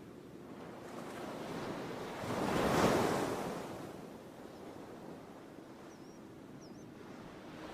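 Ocean surf: a wave swells and breaks, loudest about three seconds in, then washes back to a steady hush.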